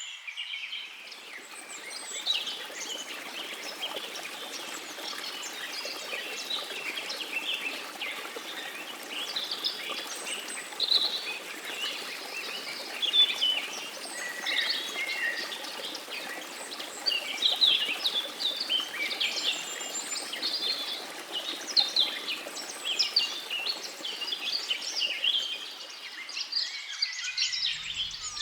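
A dense chorus of many birds singing and chirping at once, quick high calls overlapping throughout, over a steady low rushing background.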